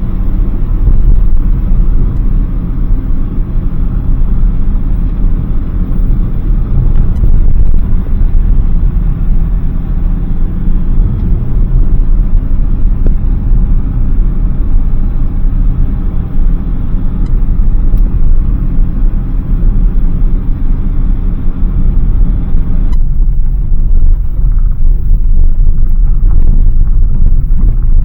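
Daihatsu Hijet kei panel van on the move: a steady, loud low rumble of engine and road noise. About 23 s in the higher part of the noise suddenly drops away and the low rumble carries on.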